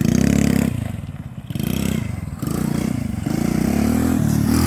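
An RC quad bike's small engine revving in three bursts as it is driven, the pitch rising and falling with each burst of throttle.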